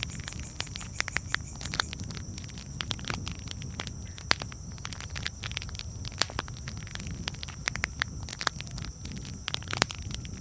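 Campfire burning with a steady low rumble and irregular crackles and pops, a few louder snaps among them.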